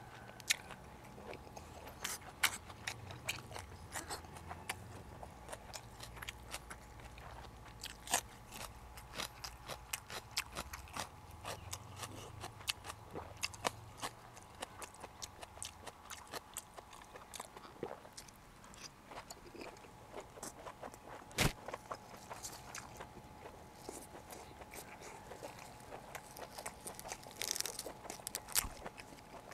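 A person chewing and biting food close to a lapel microphone: many small wet clicks and smacks of the mouth, with a few sharper crunches, the loudest about two-thirds of the way through.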